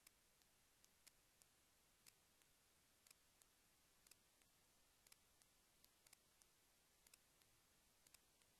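Near silence with faint, sharp clicks at uneven intervals, about two or three a second.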